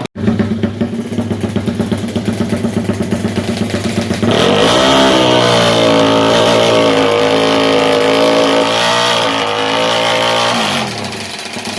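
Yamaha MX King single-cylinder engine, fuel-injected and bored to 200cc, running through an HO2 racing exhaust. It idles with distinct loud exhaust pulses, is revved up sharply about four seconds in and held high for several seconds, then drops back to idle near the end.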